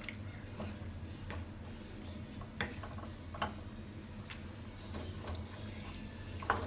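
A spoon turning chicken through thick masala in a cooking pot: soft wet squishing with scattered clicks and knocks of the spoon against the pot, over a low steady hum.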